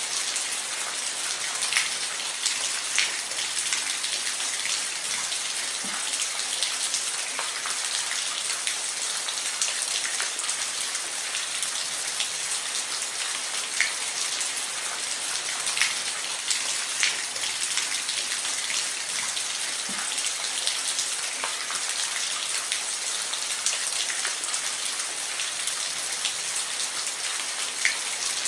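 Steady rain falling on a roof, a dense even patter with individual drops ticking louder here and there.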